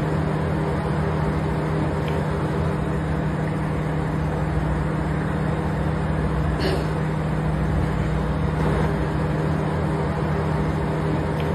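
Steady mechanical drone with a constant low hum, like a motor running, with a couple of faint ticks over it.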